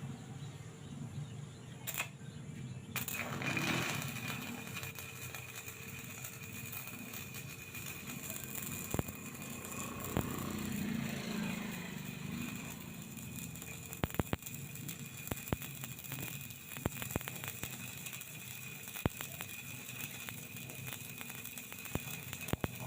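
Stick (shielded metal arc) welding arc crackling and sputtering steadily, with many sharp pops of spatter scattered through it.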